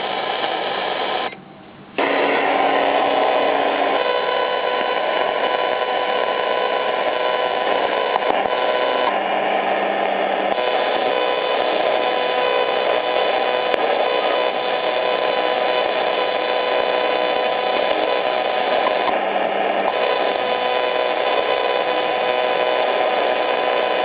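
Grundig Yachtboy 80 portable shortwave receiver putting out band noise: steady hiss and static with several steady whistling tones over it. The sound cuts out briefly about a second in, then carries on.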